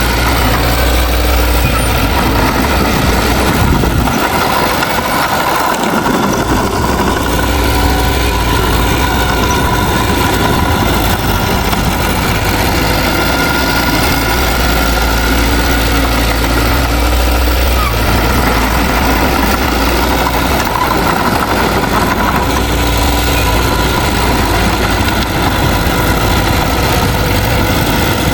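Heavy earthmoving machinery's diesel engine running steadily under load, with a deep rumble that fades briefly about four seconds in and then returns.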